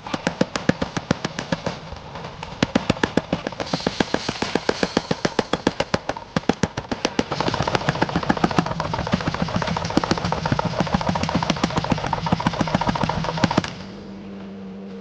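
Mechanical power hammer rapidly striking a hot steel billet, about six to seven blows a second in a steady run. The blows stop suddenly near the end, leaving the machine's steady hum.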